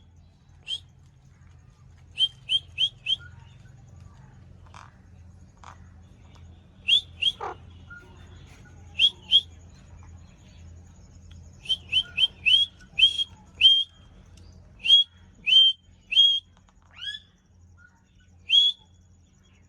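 Ringneck parakeet calling: short, sharp chirps in quick runs of two to five with pauses between, and one longer falling whistle about seven seconds in.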